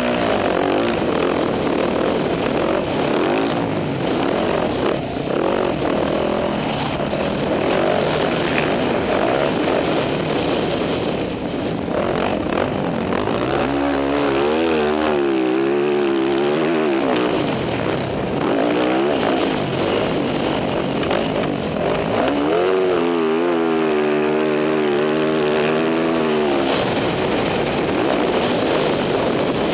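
Dirt bike engine running hard under a loud, steady rushing noise. Its pitch clearly rises and wavers twice, near the middle and again about three quarters through, as the throttle is worked.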